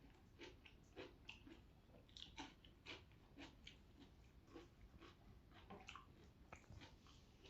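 Faint close-up chewing of a mouthful of vegetables and rice, with irregular small crunchy clicks, about two or three a second.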